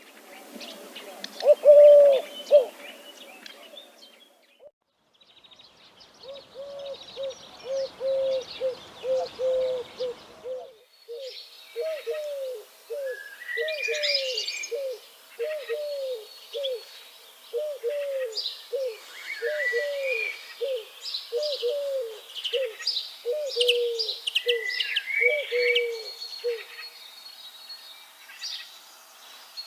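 A dove cooing: one loud coo about two seconds in, then a long run of short repeated coo notes, several a second, that stops near the end. Small songbirds chirp and trill high above the cooing through the second half.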